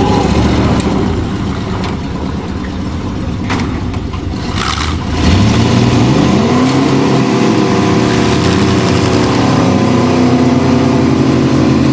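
School bus and car and truck engines revving hard under load as the vehicles push against each other. The revving climbs and gets louder about five seconds in, then holds high.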